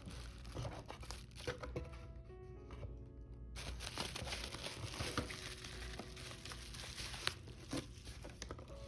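Packaging crinkling and rustling as it is handled, growing denser about a third of the way in, over soft background music.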